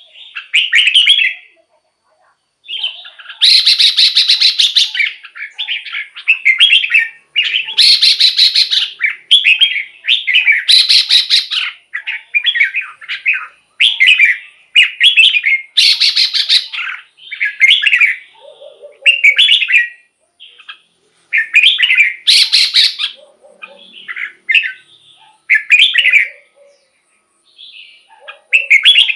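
Red-whiskered bulbul singing a long run of short, whistled phrases of about a second each with brief pauses between them; several phrases are louder and fuller than the rest.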